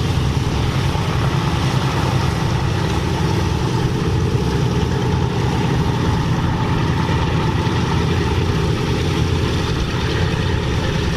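Piston engines of Second World War warbirds running in a steady, low drone with no marked rise or fall.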